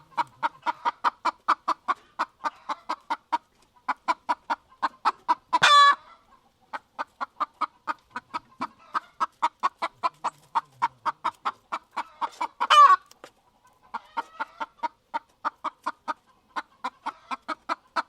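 Chicken clucking: runs of short, quick clucks, about four or five a second, each run ending in a loud squawk that sweeps up and down in pitch; the squawk comes twice.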